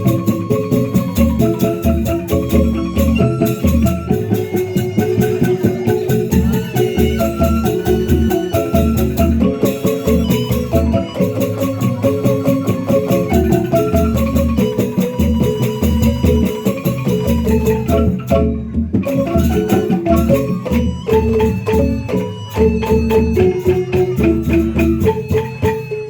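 Gamelan-style percussion music: mallet-struck xylophones or metallophones play fast, dense repeated notes over a steady low drum beat.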